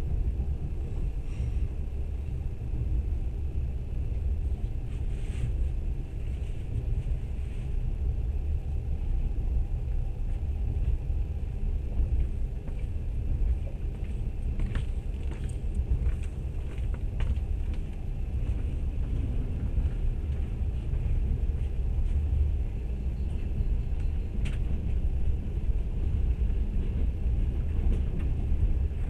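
Steady low rumble of a moving train, heard from inside the carriage, with a few faint clicks now and then.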